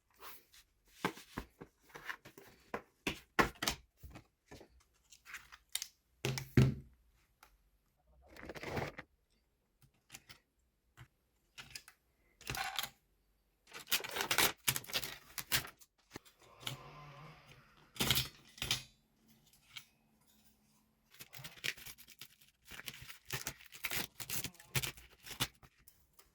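Hands working on an Asus VivoBook 530 laptop's plastic casing and keyboard during disassembly: a run of sharp plastic clicks, snaps and scraping, with a heavier thump about six and a half seconds in.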